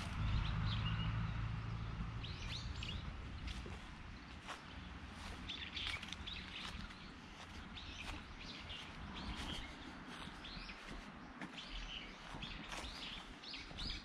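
Small birds chirping in short calls again and again over a steady outdoor hiss, with a low hum that fades out within the first few seconds.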